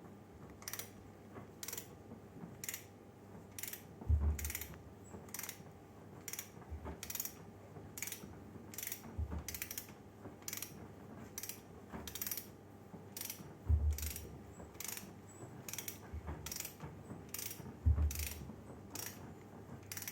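Regular mechanical clicking, about two sharp clicks a second, with a few low thumps in between.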